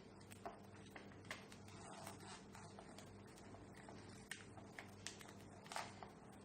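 Faint scattered taps and light rustles of paper craft pieces and a glue applicator being handled on a table, over a faint steady low hum.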